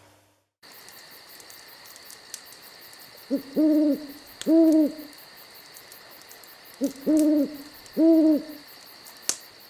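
An owl hooting: two pairs of low hoots, each hoot rising and falling slightly in pitch. Under them runs a steady high-pitched chirr of night insects, and there is a sharp click near the end.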